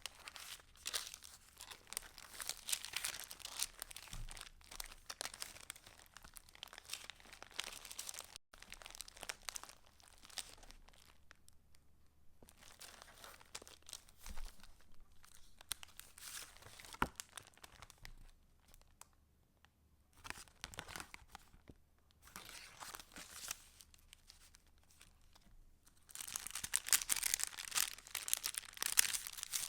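Paper crinkling and rustling as the stiff, layered pages of a handmade junk journal are handled and turned. The crackle comes and goes, thins out in the middle with one sharp click, and grows busier near the end.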